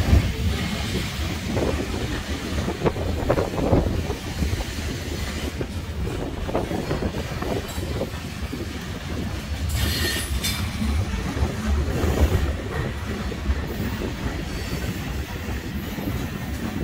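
Freight train cars rolling past: a steady low rumble with wheels clacking over rail joints. About ten seconds in comes a brief high-pitched wheel squeal.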